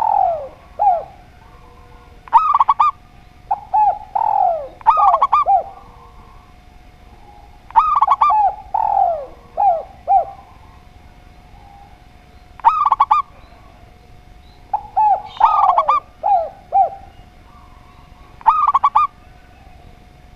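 Zebra dove and spotted dove cooing, repeated phrases every few seconds with short pauses between them. Some phrases are clusters of short high notes, others slide down in pitch.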